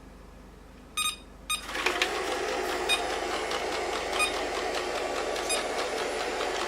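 ILIFE V3s Pro robot vacuum beeping twice, then its motors starting up and running steadily as it begins cleaning.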